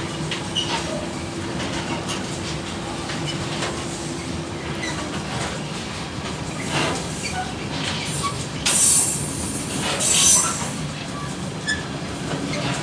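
Container freight train rolling past: a steady rumble with wheels clicking over rail joints and a steady whining tone for the first five seconds. Two loud, high-pitched squeals of the wagon wheels come near the end, the loudest part.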